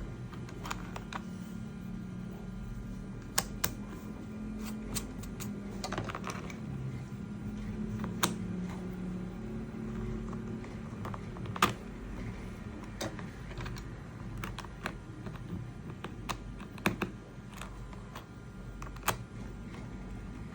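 Irregular sharp clicks and light taps of hard 3D-printed PLA plastic parts being handled and fitted together, over a low steady hum.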